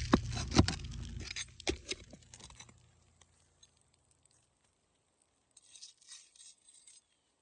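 Sharp clicks and knocks in the first two seconds, then faint scraping a little before the end: hand work on old roof shingles being pried loose.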